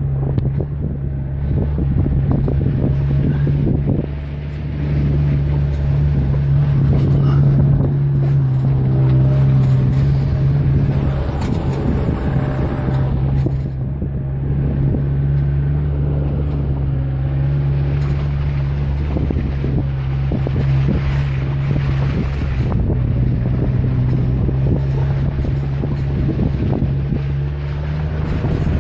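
Suzuki Samurai's engine running at steady revs while it drives over a rough snowy track, heard from inside the cabin, with scattered knocks and rattles from the bumps and wind noise on the microphone.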